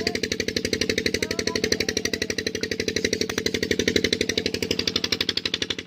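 Tube well pump engine running steadily with a fast, even thumping beat of about a dozen beats a second.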